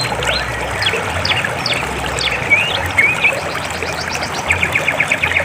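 River water flowing steadily, with small birds chirping over it and a quick rapid trill of chirps near the end.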